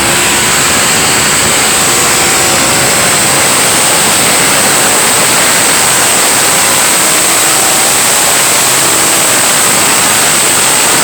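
Pulling tractor's engine running flat out, a loud, steady, rushing engine noise with a thin high whine held over it.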